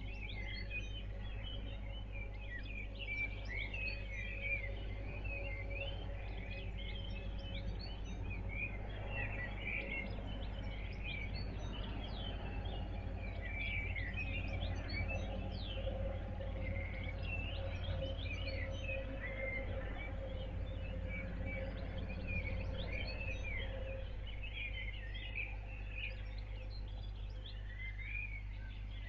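Birds chirping and calling in many short, quick notes over a steady low hum, with a faint steady tone that stops near the end.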